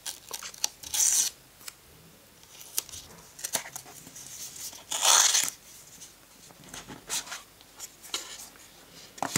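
A smartphone's retail box being opened by hand: packaging tearing, crinkling and cardboard rubbing in short irregular rustles. The loudest come about a second in and around five seconds in.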